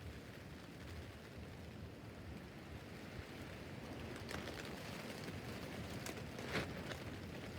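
Rain pattering on a tent roof: a steady hiss of rain with scattered heavier drops ticking on the fabric, one louder drop hitting about six and a half seconds in.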